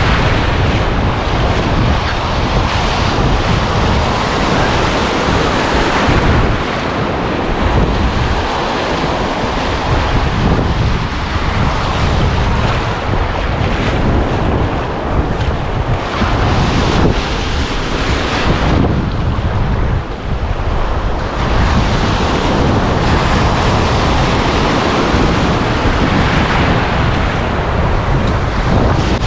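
Lake Michigan waves surging and breaking, with strong wind buffeting the microphone in a steady loud rush and low rumble. It eases briefly about two-thirds of the way through.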